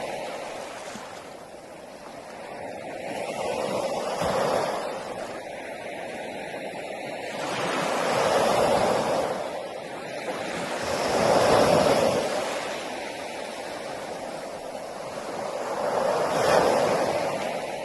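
Sea waves breaking on a beach: a rushing surf that swells and fades four times, each wave a few seconds apart.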